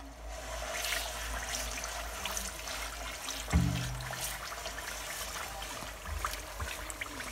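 Semolina sizzling and crackling in hot ghee as it is tipped into the pan and stirred with a silicone spatula. A brief low hum comes about three and a half seconds in.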